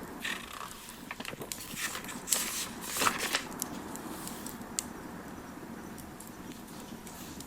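Campfire crackling: irregular sharp pops and snaps over a steady soft hiss, with a flurry of louder pops about two to three seconds in.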